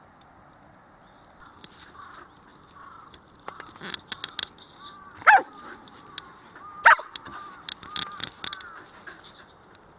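A dog gives two sharp, high barks, the second about a second and a half after the first, among softer short yips and whines.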